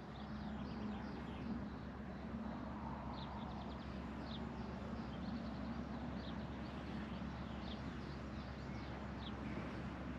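A songbird giving short, high, falling chirps about once a second over a steady low outdoor rumble.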